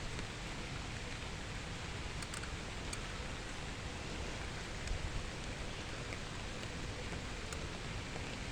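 Steady hiss of outdoor background noise, with a few faint ticks.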